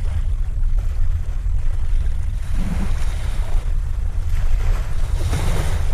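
Wind buffeting the microphone over the wash of waves, with a louder rush of water about halfway through and again near the end.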